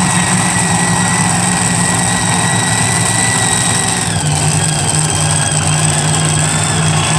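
Loud engine idling steadily, with a constant high whine over it. Its note shifts about four seconds in.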